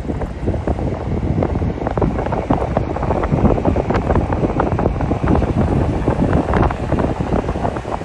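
Train passing close beneath, a dense, continuous clatter of wheels on the rails, with wind buffeting the microphone.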